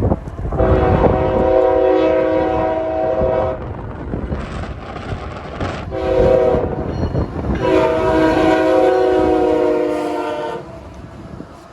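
Freight diesel locomotive's multi-chime air horn sounding a long blast, a short one and another long one, over the low rumble of the passing train. The train noise drops away near the end.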